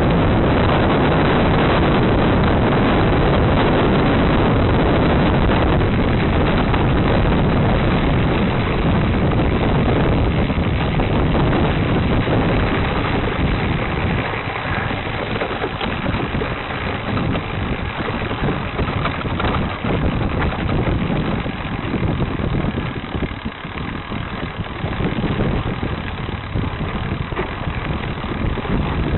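Wind rushing over the microphone of a riding bicycle's camera, mixed with tyre rumble on the trail. It is a loud, steady rush for about the first dozen seconds, then drops and becomes more uneven.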